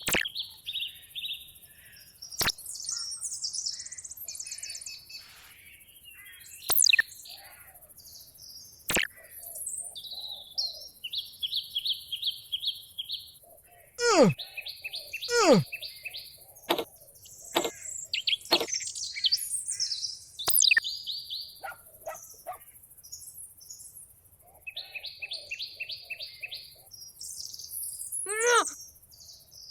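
Bird chirping in short, repeated trills, broken by sharp clicks and a few quick falling whistle-like glides.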